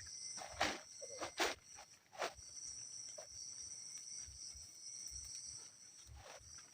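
Steady high-pitched chorus of forest insects, with a few short sharp clicks or knocks scattered through, the clearest in the first two and a half seconds and one near the end.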